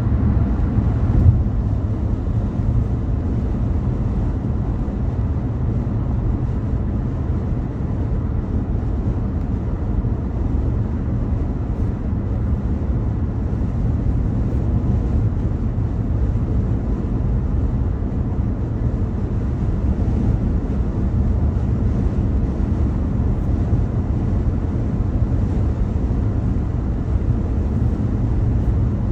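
Steady low road rumble of a car driving on a freeway, tyre and engine noise running evenly.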